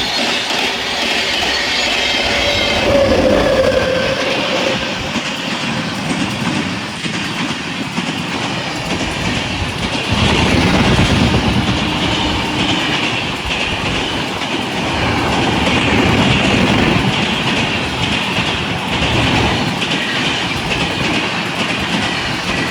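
A train running past, its wheels clattering over the rail joints.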